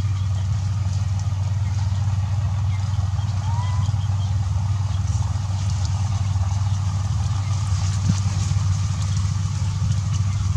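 A steady low hum like an engine idling.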